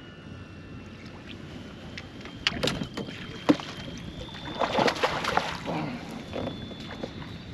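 Splashing water and sharp knocks on a kayak as a hooked bass is fought at the boat and landed. There are a couple of knocks about three seconds in and a louder burst of splashing around five seconds in.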